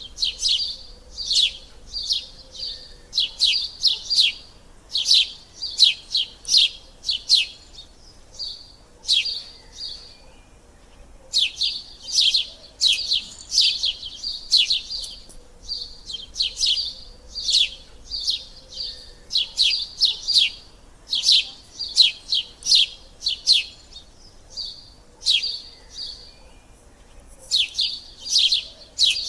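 Sparrows chirping over and over, in runs of quick, high chirps with short pauses between.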